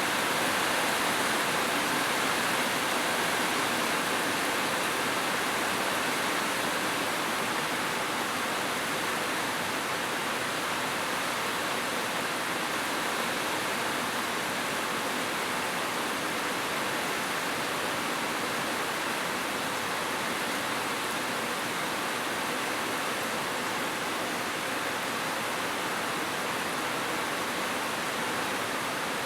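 Steady rain falling, an even unbroken hiss of drops with no separate patters or thunder.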